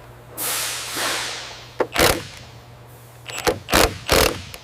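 Pneumatic impact wrench driving bolts home in short, sharp bursts: a pair about two seconds in, then a quick cluster near the end. Before them comes a falling whoosh, over a steady low hum.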